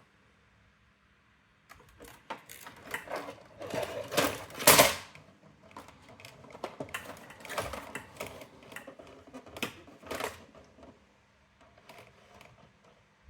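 Irregular clicks, knocks and rattles of plastic and metal parts of a Brother AX-425 electronic typewriter being handled and taken apart. The clatter starts about two seconds in, is loudest around the middle, and fades to a few faint ticks near the end.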